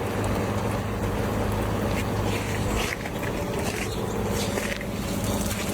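A steady low motor hum with scattered light crackles and ticks over it.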